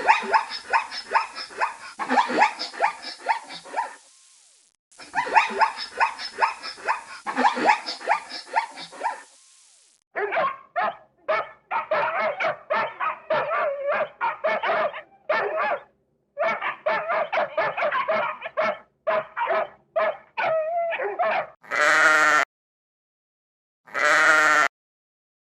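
Recorded animal calls played one after another: two stretches of rapid, dense calling, then a run of short pitched calls, then three separate short bleats near the end.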